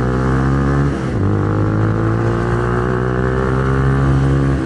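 150 cc SOHC single-cylinder engine of a Minerva R150 VX motorcycle pulling under throttle while riding. About a second in, the engine note drops briefly at a gear change, then climbs steadily again. It cuts off sharply again near the end.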